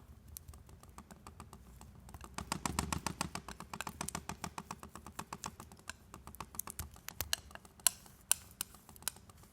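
Palette knife mixing paint on a palette: a quick, uneven run of light clicks and taps as the blade strikes and scrapes the palette, with a few sharper clicks near the end.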